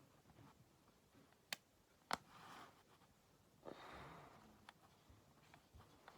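Near silence in a small room, broken by two sharp clicks about half a second apart and two soft breath-like swells of noise.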